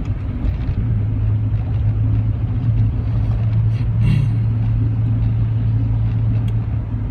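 Rover 45's engine pulling steadily in a lower gear, a continuous drone with a brief rise about four seconds in. The engine is dropping a cylinder.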